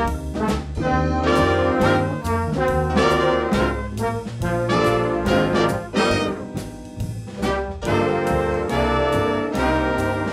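A student band playing a piece led by brass, with trumpets and trombones over a steady bass line.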